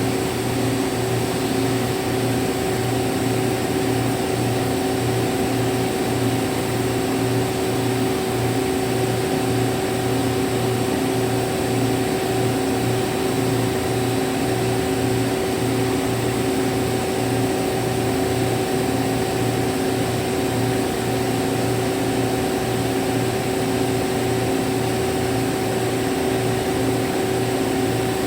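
CNC milling machine rough-milling aluminium alloy with a 25 mm cutter: a steady mechanical whine with a low, evenly pulsing throb beneath it.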